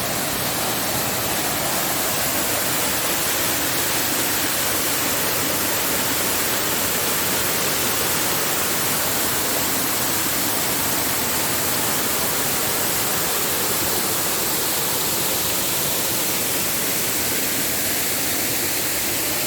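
Waterfall rushing, a steady loud roar of falling water with no change throughout.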